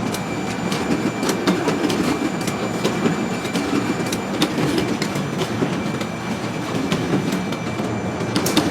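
Computerized circular sock-knitting machinery running, a steady clatter thick with sharp clicks and a faint steady high whine.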